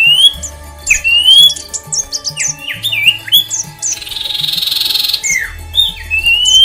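A mix of aviary songbirds calling over one another: many short whistled chirps that sweep up and down in pitch, with a harsh rasping squawk about four seconds in that lasts about a second.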